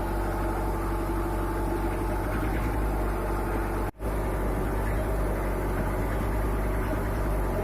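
Diesel engine of a 27.5 kVA generator set running steadily on a test run before reconditioning, showing that the engine starts and runs. The sound breaks off for a moment about four seconds in.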